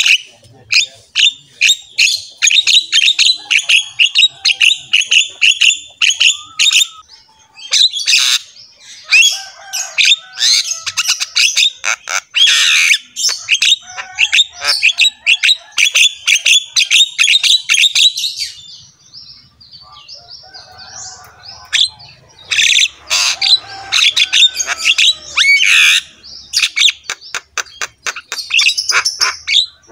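Birds calling close by: dense, rapid runs of short, high chirps and squawks, with a lull of a few seconds about two-thirds of the way through.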